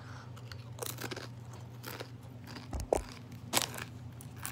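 A person biting into and chewing a Doritos Blaze tortilla chip: irregular crisp crunches, the loudest about three and a half seconds in.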